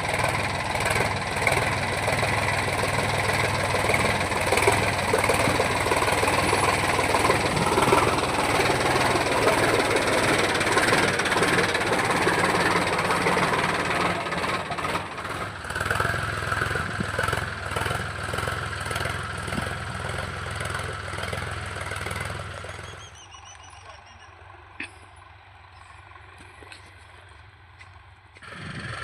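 Tractor engine running steadily. About 23 seconds in it becomes much quieter, and it grows louder again near the end.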